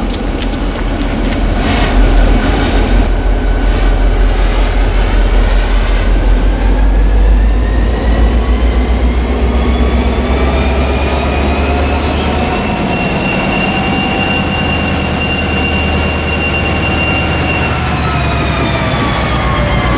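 A train running close by with a heavy low rumble and a whine whose pitch rises for about the first twelve seconds, holds steady, then starts to fall near the end.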